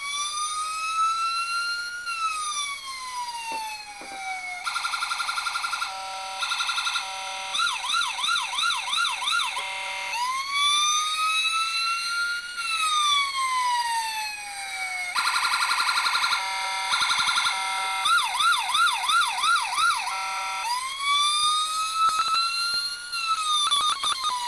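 Electronic siren module in a 1/18-scale model police Hummer, cycling through its tones over and over. It plays a slow wail that rises for about two seconds and falls away, then rapid stepped high-low tones, then a fast yelp warbling about three times a second.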